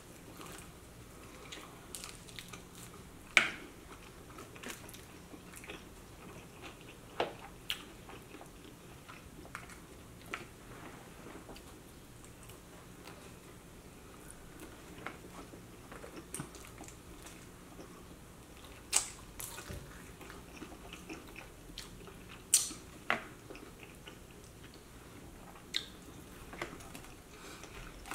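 Two people chewing and biting chicken wings, with soft wet mouth sounds and scattered short, sharp clicks, a few louder ones about three seconds in and twice past the middle.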